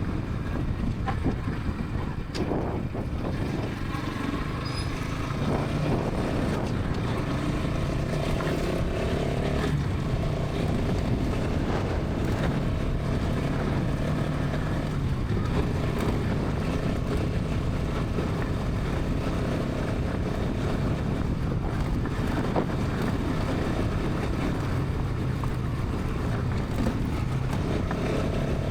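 Bajaj Pulsar NS 200's single-cylinder engine and exhaust running at highway speed under a steady bed of wind and road noise. The engine note shifts in pitch a few times.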